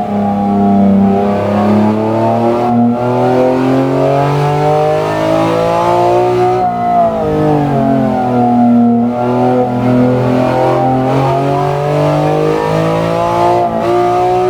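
BMW S54B32 3.2-litre naturally aspirated inline six running steadily, its pitch rising and falling gently through the middle as the revs change.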